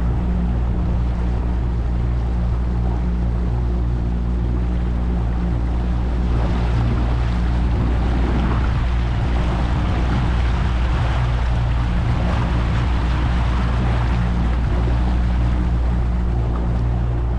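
A boat's engine running steadily, with the rush of water along the hull that grows louder from about six seconds in and eases near the end.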